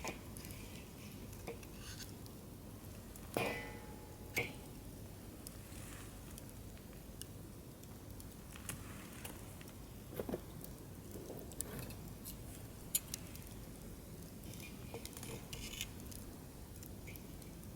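Wood fire in a fire-pit stand burning low and close to going out, giving off sparse crackles and small pops over a faint hiss, with a couple of sharper pops about three and four seconds in.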